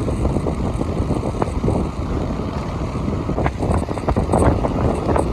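Wind buffeting the microphone of a bicycle-mounted phone as the bike speeds downhill: a loud, steady rumble with scattered short knocks and rattles.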